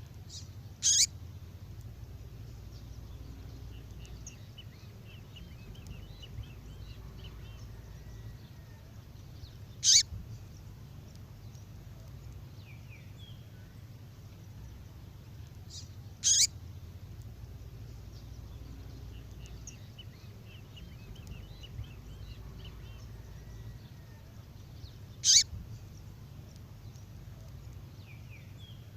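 Recorded female songbird call, played as a lure: four short, loud, high calls that sweep downward, with soft twittering between them, repeating in an even loop about every 15 seconds over a low steady hum.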